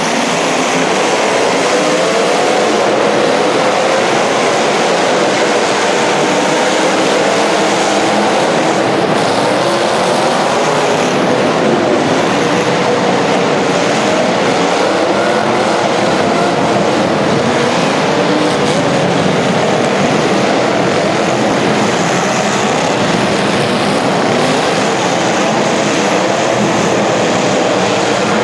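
Several racing engines running at once, their pitches rising and falling as they rev.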